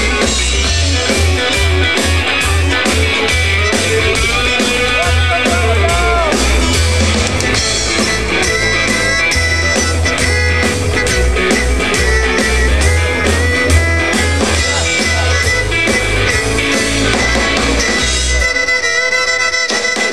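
Band music with guitar, bass and a steady drum beat; the drums drop out near the end.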